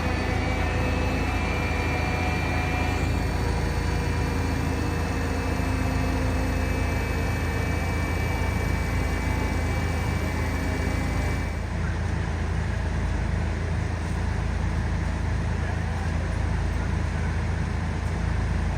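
Heavy diesel engine running steadily at a low, even drone, with a steady higher whine over it that cuts off about two-thirds of the way through.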